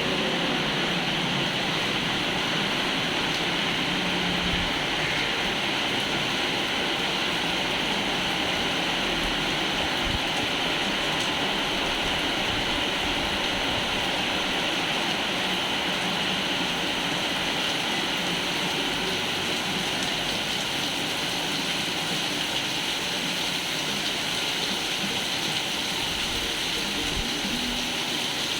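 Steady rain falling on a koi pond, a constant even rush of water with no breaks.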